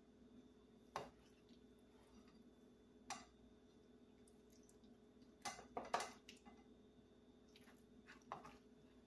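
Scattered faint clinks of a serving utensil against the baking dish and plate as casserole is dished up: single taps about a second in and three seconds in, a quick cluster of three or four around the middle, and one more near the end, over a faint steady hum.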